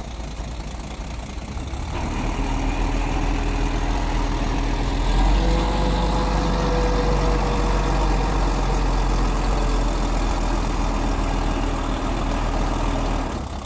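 Mitsubishi bulldozer's diesel engine running. It gets louder about two seconds in, holds steady, and eases back near the end.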